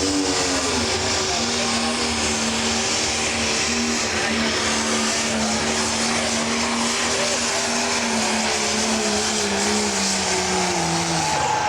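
Turbocharged diesel engine of a 10,000 lb pro stock pulling tractor running flat out on a pull, a steady high engine note with a hiss above it. Its pitch sags slowly and then drops near the end.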